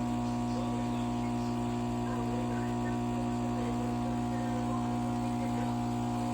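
A steady electrical hum made of several fixed tones, unchanging throughout.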